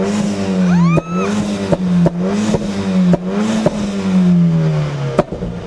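A 1997 Hyundai Tiburon's engine, said to have a 1.6-litre Veloster engine swapped in, revved in repeated throttle blips, about five rises and falls, with sharp pops between them. A short rising whoop comes about a second in, and the revs sink back to idle near the end.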